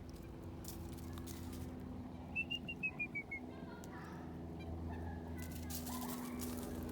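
A bird calling: a quick run of about seven short clear notes, falling slightly in pitch, about two and a half seconds in. A steady low hum runs underneath.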